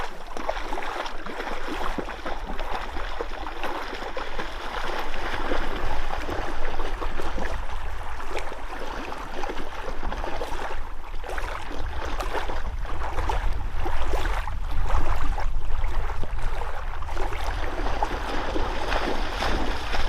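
Water sloshing and splashing, irregular and continuous, over a steady low rumble.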